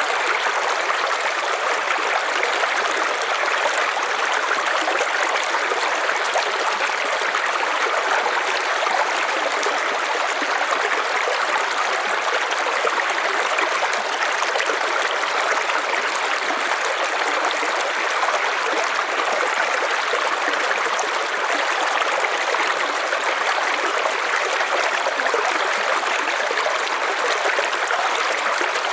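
River water flowing over stones, a steady rushing and trickling with no change in level.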